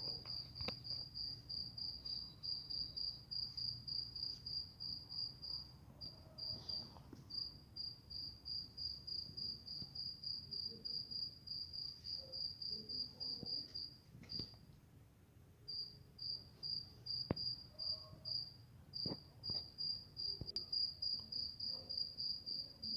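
A cricket chirping in a steady high-pitched pulse, about four chirps a second, with a brief pause around the middle.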